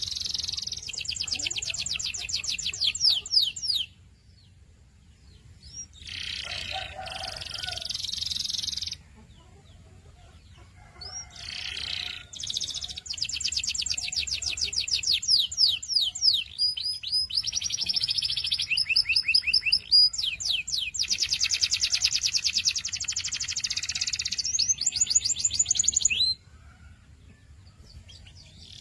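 Domestic canary singing in phrases of fast trills and rolls, made of rapidly repeated high notes and quick falling sweeps. There are short pauses between the phrases, and the longest run of song fills most of the second half.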